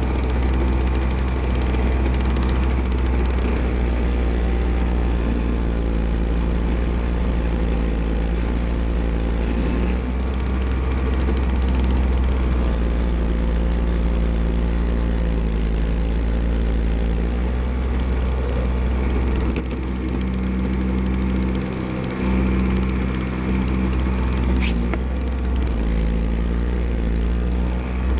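Small snowblower's engine running steadily, heard up close from a camera mounted on the machine, with its note dipping briefly a few times past the middle and a single sharp click late on.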